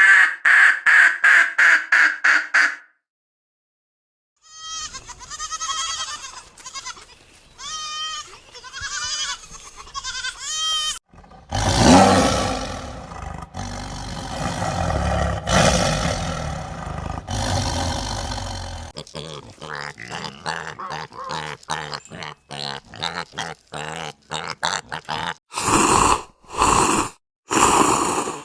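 A succession of different animal calls, one clip after another: rapid repeated calls, then a run of short pitched cries, then a long, loud, rough call lasting several seconds about halfway through, then more quick calls and a few loud bursts near the end.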